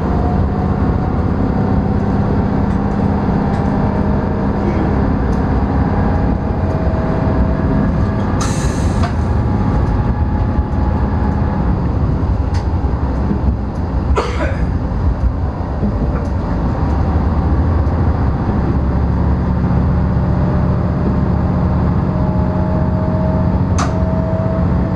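NT100 diesel railcar running along the track, heard from inside the cab: a steady engine drone with a faint, slowly rising whine. The engine note drops away for several seconds past the middle, then returns, and a few short sharp clicks stand out.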